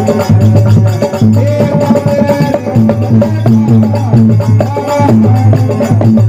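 Marwari folk bhajan music: a held, gliding melody over a low drone, with a steady clicking percussion beat.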